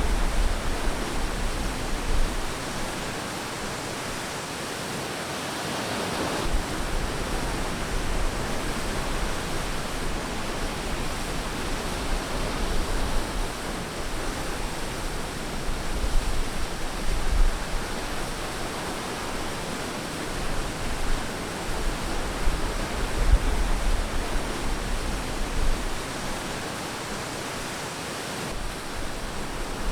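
Ocean surf on a beach: a steady wash of waves that swells and ebbs, with one wave breaking more strongly about six seconds in and low rumbles coming and going.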